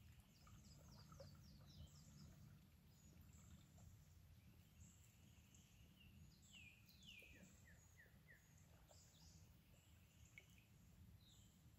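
Faint birdsong over near silence: a quick run of high, falling chirps near the start, then about halfway through two longer falling whistles followed by a few short chips.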